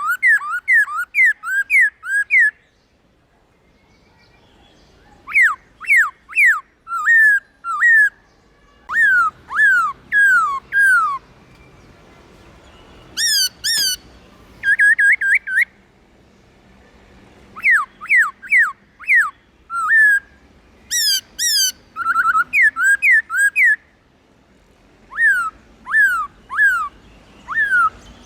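Black-throated laughingthrush singing: bouts of loud, clear whistled notes, each sliding quickly downward, with short pauses between the bouts.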